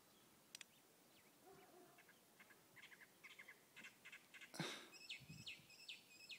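Near silence with faint small birds chirping in quick runs of short notes. A brief rustle comes about two-thirds of the way through.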